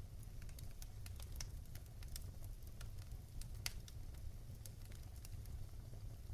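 Wood fire crackling in a fireplace: a steady low rumble under many small, irregular pops and snaps, with one sharper pop in the middle.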